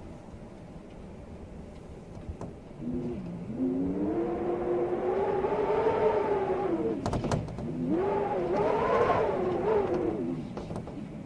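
Storm wind howling in gusts: a pitched howl that swells up and wavers, rising and falling twice, over a low rumble. A few sharp clicks come partway through.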